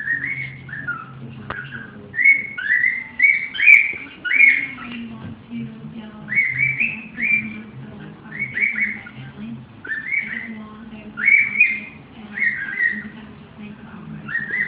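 Cockatiel whistling a song in a run of short rising whistled notes, grouped in phrases with brief gaps between them.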